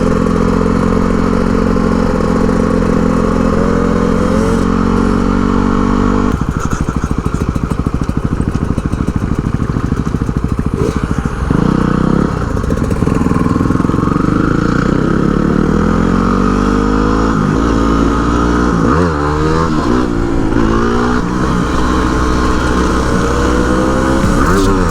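Dual-sport motorcycle engine running under way: a steady note at first, dropping suddenly about six seconds in to a lower, pulsing note, then rising and falling repeatedly through the second half as the throttle is opened and closed.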